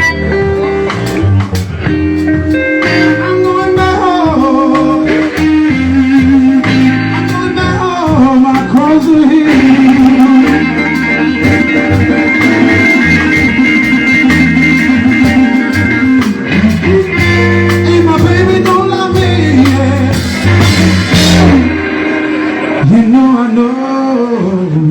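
Live blues band playing, led by an electric guitar bending and sliding its notes over bass and drums. The low end drops out near the end.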